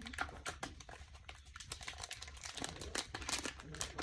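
Close-up crinkling with many small irregular clicks and crackles.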